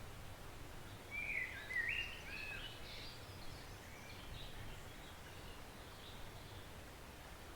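A songbird sings a phrase of short notes that jump in pitch, starting about a second in, with fainter notes following, over the steady low rush of a woodland stream.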